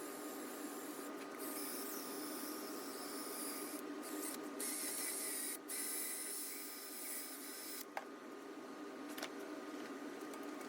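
A small motor running steadily with a hiss, its high hiss dropping out briefly several times.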